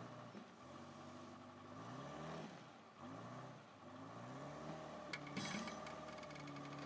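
Yanmar YB451 mini excavator's diesel engine running, its revs rising and falling several times under a steady high whine, as the machine is worked to force its own track off.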